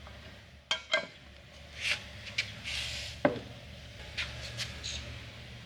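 Scattered sharp clicks and knocks of hard objects being handled and set down, with a couple of short scraping rubs, over a steady low hum.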